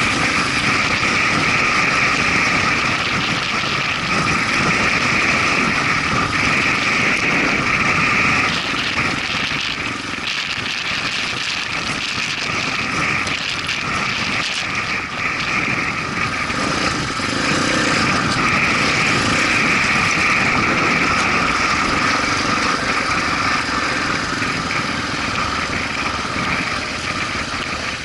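Motorcycle engine running steadily, easing off a little for a few seconds mid-way.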